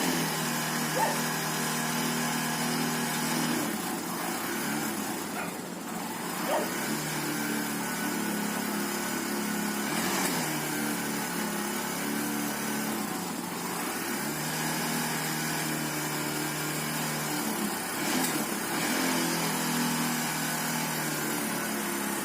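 A vehicle engine running steadily, its note shifting a few times as the speed changes.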